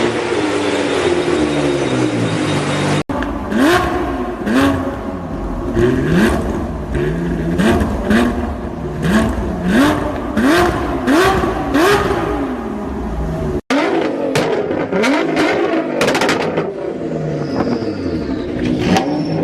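Performance car engine and exhaust: the engine's pitch falls steadily for about three seconds, then after a cut it is revved in a string of quick throttle blips that each rise sharply in pitch, with loud exhaust pops and crackles between them. A second cut near the end of the blips brings more revving and crackles.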